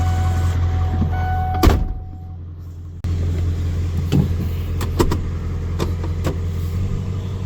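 Truck engine idling with a steady low hum, broken by a sharp knock about two seconds in and a few lighter clicks later.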